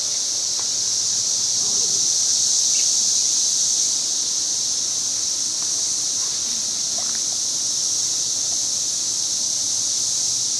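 Chorus of many cicadas singing together: a steady, loud high-pitched buzz that swells slightly a couple of seconds in.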